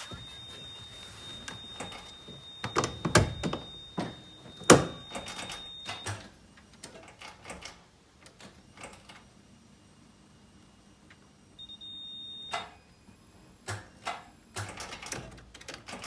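Handling noises at a Toyota AE86 with its engine off: two loud thunks about three and nearly five seconds in, then scattered clicks and knocks. A steady high-pitched beep sounds until about six seconds in and again briefly near twelve seconds.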